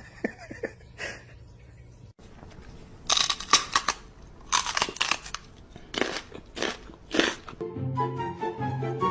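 A series of loud crunching bursts, five or six in about four seconds. Music with held notes comes in near the end.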